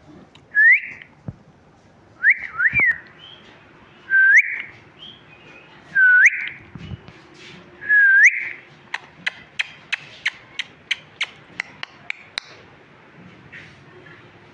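A pet parrot whistling: about six short whistles that dip and then swoop upward, roughly every two seconds, followed by a quick run of sharp clicks, about three a second.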